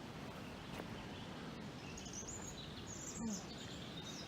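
Steady low background noise with scattered short bird chirps, and one brief bump about three seconds in.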